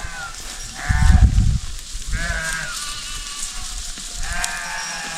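Small livestock bleating: three short calls, about a second in, a little after two seconds, and near the end.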